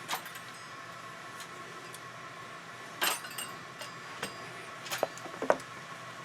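Metal tools and bicycle parts clinking and knocking against each other as a pedal is taken off a rusty bike crank: about six separate sharp clinks, the loudest about three seconds in and near the end.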